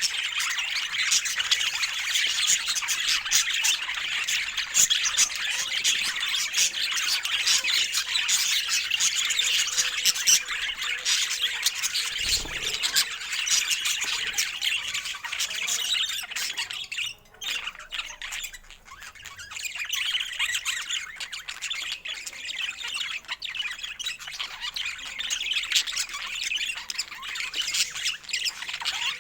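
Budgerigars chattering and squawking in a dense, continuous stream of rapid calls, which briefly thins out a little past halfway.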